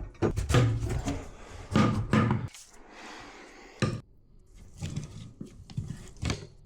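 Channel-lock pliers working on faucet fittings: a run of metal knocks and clatters, loudest in the first two and a half seconds, a sharp click about four seconds in, then lighter knocks.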